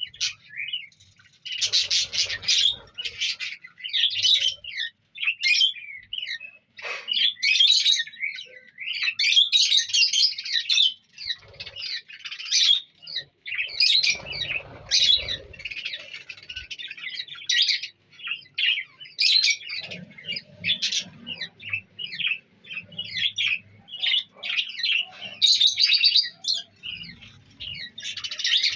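A colony of budgerigars and lovebirds chattering and chirping, many birds calling over one another almost without pause.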